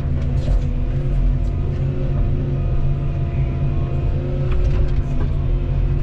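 Volvo EC235EL tracked excavator's diesel engine running steadily under load, with faint whining tones from the hydraulics above the drone.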